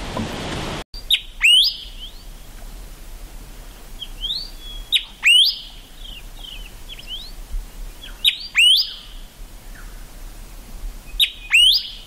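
A bird calling about every three and a half seconds: each call a short high note followed by a very steep rising whistle, with softer chirps between the calls. Outdoor wind noise is heard before it cuts off abruptly about a second in.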